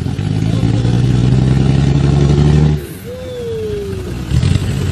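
Off-road 4x4's engine held at high revs under load, then easing off suddenly about three seconds in and picking up again near the end.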